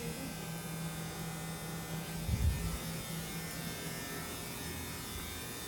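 A steady buzzing hum, like a small electric motor, with a brief low thump about two seconds in.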